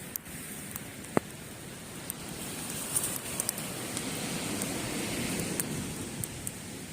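Wood campfire crackling with scattered sharp pops, one louder than the rest about a second in, over the steady wash of sea waves on a beach, which swells and fades in the second half.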